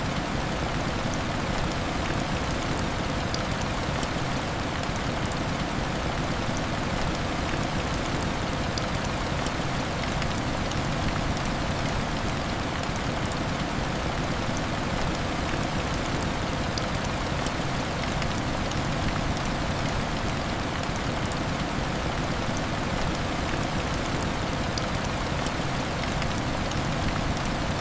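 Steady heavy rain hitting window glass: an even, unbroken hiss with scattered faint small ticks.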